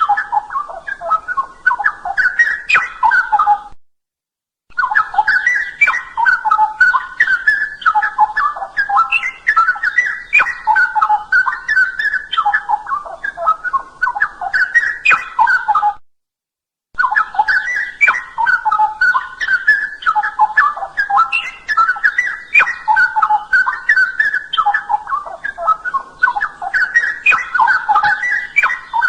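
Straw-headed bulbul (cucak rowo) singing a loud, continuous stream of rich, bubbling warbled phrases. The song cuts out completely twice for under a second, about four seconds in and again about sixteen seconds in.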